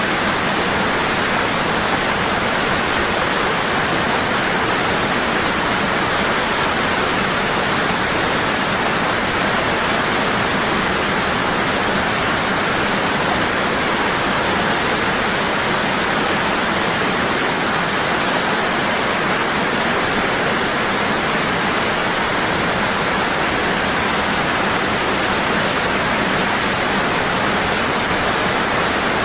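Waterfall: water falling heavily and steadily, a constant rushing without pauses or changes.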